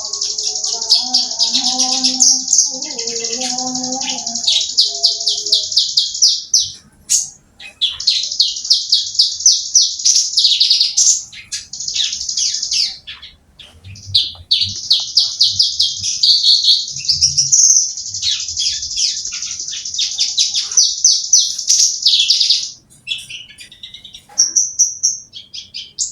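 Javan bush lark (branjangan) singing: long runs of rapid, high-pitched chattering notes with a few short pauses between phrases.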